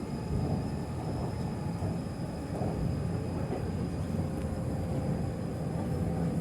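Cabin noise of an MTR East Rail line R-train electric multiple unit running between stations: a steady low rumble of wheels on the track, with a faint high steady whine above it.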